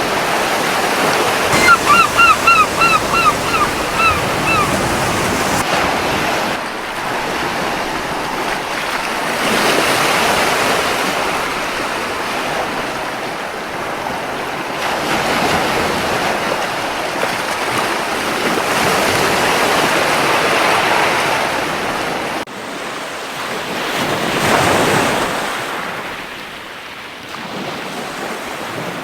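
Surf washing onto a beach, swelling and ebbing in waves. A seagull gives a quick run of about eight short calls a couple of seconds in. The surf drops abruptly in level about two-thirds of the way through.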